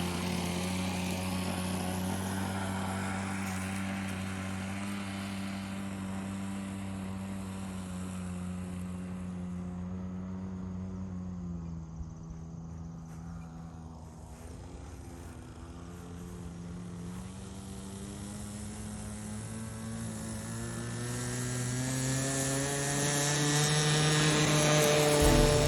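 Magnum XL .46 two-stroke glow engine of a SIG Kadet LT-40 radio-controlled trainer plane running at steady high throttle in flight. It fades as the plane flies away, with a slight dip in pitch near the middle, and grows louder again towards the end as it comes back.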